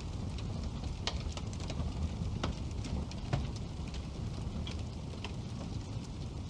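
Wood burning in a fireplace: a steady low rumble of flame with scattered sharp crackles and pops, the loudest about three seconds in.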